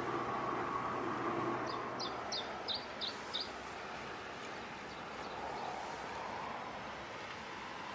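A bird gives six short, high chirps in quick succession about two seconds in, over steady outdoor background noise. A droning engine hum fades away in the first second and a half.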